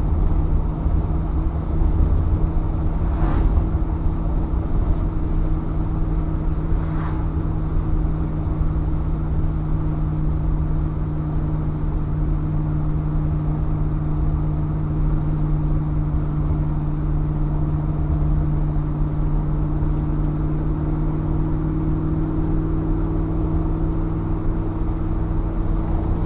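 1964 Chevrolet Impala SS's 327 V8 cruising at steady highway speed, its exhaust droning through 2.5-inch pipes and Porter mufflers. The engine pitch rises slightly near the end, and two brief knocks come a few seconds in.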